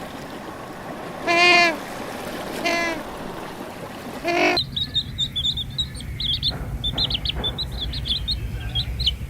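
Three short pitched animal calls, each with a rich string of overtones and about a second and a half apart, then, from about halfway, many rapid high bird chirps over a low steady rumble.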